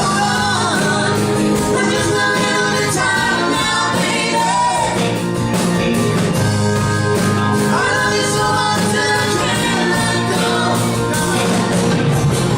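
Live band playing a rock song, with a singer's voice carried over steady bass and guitar.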